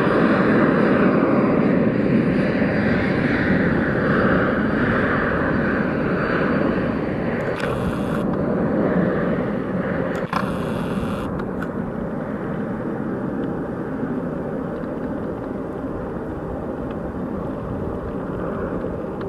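Twin turbofan engines of a Cessna Citation M2 business jet at takeoff power, a steady jet rush with a high turbine whine, fading as the jet departs and climbs away. The whine stops about eight seconds in, and there is a sharp click about ten seconds in.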